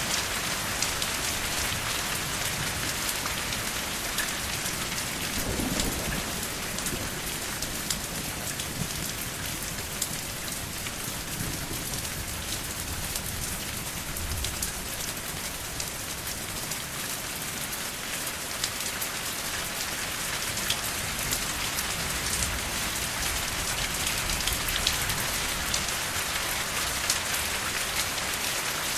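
Steady rain falling, a dense hiss with many small drop ticks. A brief low rumble comes about six seconds in and a weaker one around fourteen seconds.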